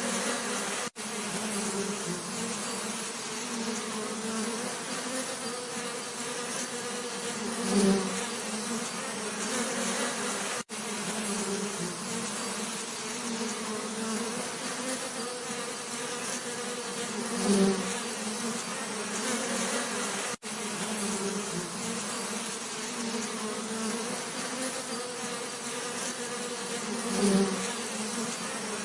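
Bees buzzing in a steady, droning hum. The buzz swells louder three times, about every ten seconds, and cuts out for an instant three times, as at the seams of a looped recording.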